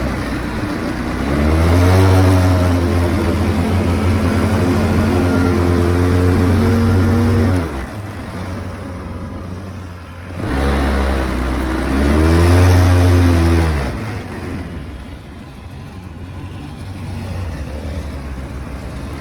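A vehicle engine accelerating twice: each time its pitch climbs and then holds steady under throttle for a few seconds before it eases off. Between and after the two pulls it runs quieter, with a rushing noise.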